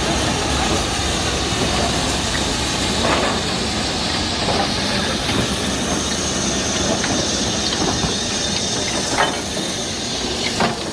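Steam locomotive hissing steam steadily, with a few short knocks.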